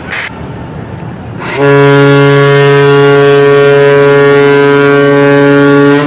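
Ship's whistle (horn) sounding one long, loud, steady blast that starts about a second and a half in and cuts off near the end. It comes after a short stretch of lower background rumble.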